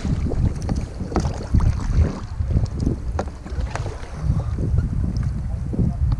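Kayak paddles dipping and splashing in the water in irregular strokes, over heavy wind rumble on the microphone.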